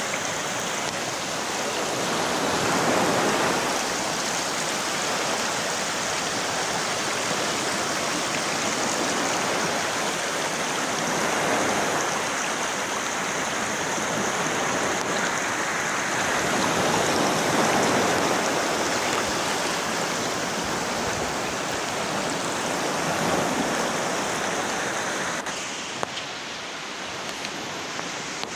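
Steady rushing water, rising and easing in loudness every several seconds. Near the end it turns duller and a little quieter.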